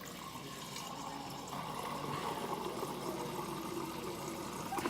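Water running steadily with a faint whistling tone through it, getting a little louder about a second and a half in.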